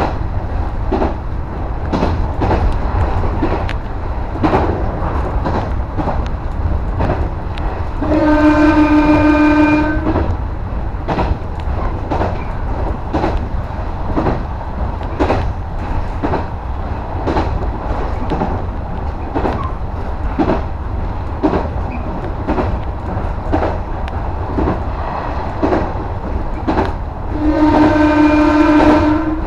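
JR West 115 series 300 subseries electric train running, heard from the front of the leading car: a steady low rumble with the click of the wheels over rail joints. The train's horn sounds twice, one blast of about two seconds each, about eight seconds in and again near the end.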